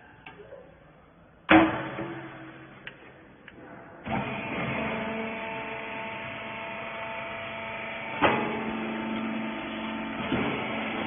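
Hydraulic rag baler: a loud metal bang, then about four seconds in its motor and hydraulic pump start and run with a steady hum of several tones, with more metal knocks over it a few seconds later and near the end.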